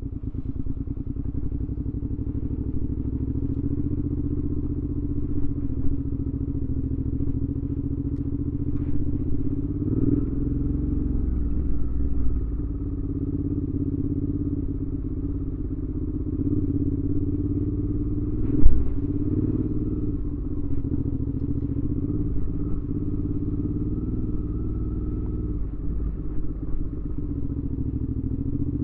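A 2019 Suzuki V-Strom 650's V-twin engine running through a Delkevic aftermarket exhaust with a carbon-fibre tip, holding a steady pace with only small changes in pitch. A single sharp thump about two-thirds of the way in is the loudest moment.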